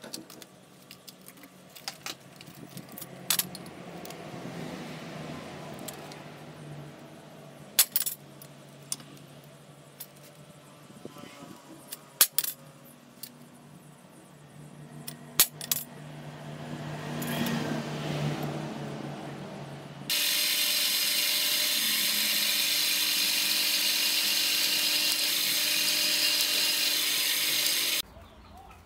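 Small metal parts clinking and tapping during hand work on a homemade steel RC truck axle, then about two-thirds of the way in a power tool starts working the metal with a loud, steady hiss for about eight seconds and stops abruptly.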